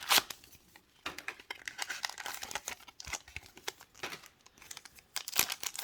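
Foil booster pack wrapper crinkling and tearing as it is opened by hand, in a run of irregular crackles with a louder rustle near the end.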